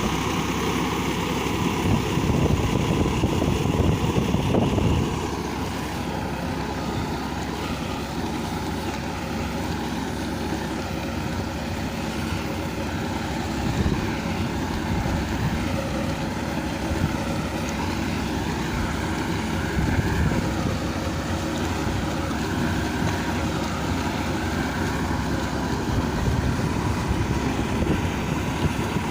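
Farmtrac 45 EPI tractor's diesel engine running steadily, louder for the first five seconds or so and then settling a little quieter.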